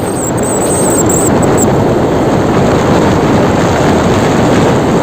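Loud, steady engine and road noise of a heavy truck on the road.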